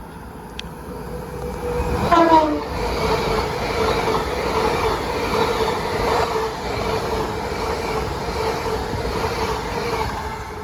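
Great Western Railway Class 800 IET passing at speed. About two seconds in, its horn sounds briefly and the pitch drops in a clear Doppler shift. The train's steady rush continues past until near the end.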